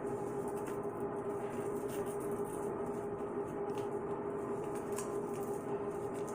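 A steady hum holding one constant tone, with a couple of faint clicks.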